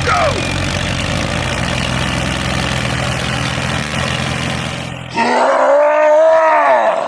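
An engine runs steadily for about five seconds and then stops abruptly. A long pitched voice-like sound follows, rising and then falling in pitch.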